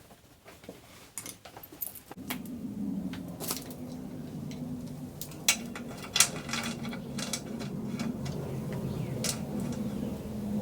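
Stick welding with a 7018 electrode: after a few light metallic clicks, the arc strikes about two seconds in and then runs with a steady hum and crackle, with a few sharp pops.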